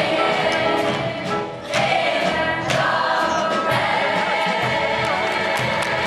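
A musical-theatre cast singing together in chorus with instrumental accompaniment, settling onto a long held final chord about two-thirds of the way through.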